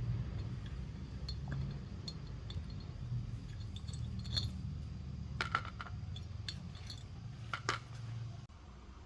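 Light metallic clinks of small parts and tools being handled, the sharpest about five and a half and seven and a half seconds in, over a steady low rumble.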